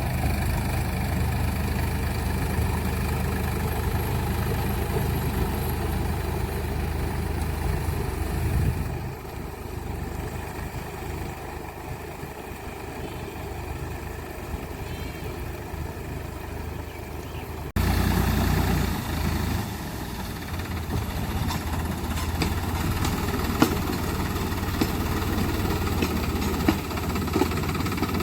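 Sonalika tractor's diesel engine running steadily. It turns quieter about a third of the way in, then comes back louder after an abrupt cut a little past the middle.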